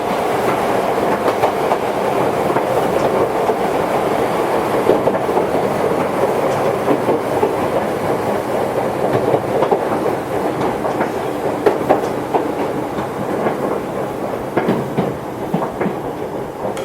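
Toyohashi Railway 1800-series electric train, a former Tokyu car, running along the line: steady rolling noise with the wheels clicking over rail joints, the clicks more distinct in the second half.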